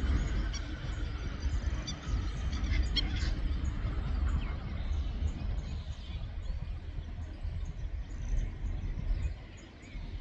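Low rumble of a TasRail freight train's diesel locomotives climbing away, with a few bird chirps about two to three seconds in. The rumble dips lower near the end.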